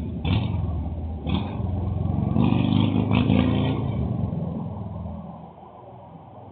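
Motorcycle engine revving hard, loudest about three seconds in, then fading away.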